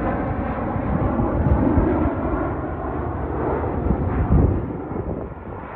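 Passenger jet flying low overhead, its engines loudest about four seconds in and then fading.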